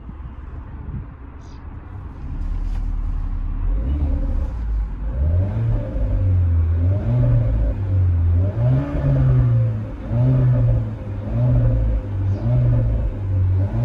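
Renault Mégane RS's 1.8-litre turbocharged four-cylinder engine, first a low rumble, then from about four seconds in revving up and down over and over, its pitch rising and falling every second or so.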